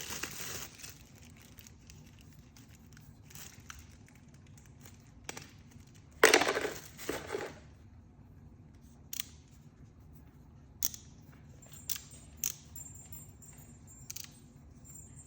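Plastic packaging rustling and crinkling as a hair clipper is worked out of its box, with a louder burst of crinkling about six seconds in, followed by several sharp clicks and taps.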